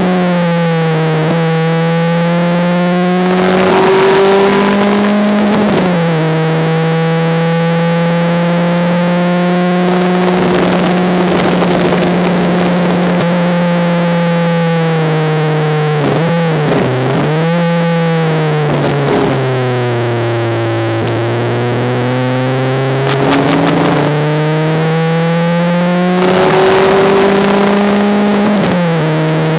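Honda Civic race car's four-cylinder engine heard from inside the car at racing speed. The note climbs slowly and drops sharply several times as it shifts, and sinks deep twice around the middle, the longer dip lasting a few seconds, as the car brakes and downshifts.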